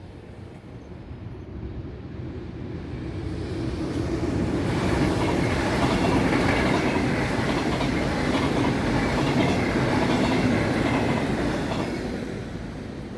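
A VIRM double-deck electric train passing, with wheel and rail noise. It grows louder as the train approaches, is loudest from about five to twelve seconds in, then fades as it moves away.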